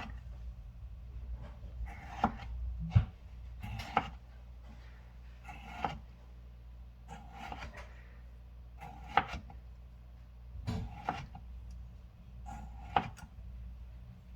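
Kitchen knife cutting vegetables on a chopping board in slow, irregular single cuts, about one every second or two, with a low steady hum underneath.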